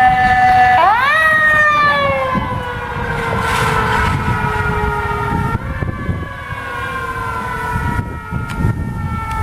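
Fire truck siren wailing on a response: a steady tone that sweeps sharply up about a second in, then falls slowly, steps up a little around the middle and falls again, over the low rumble of the truck's engine and road noise.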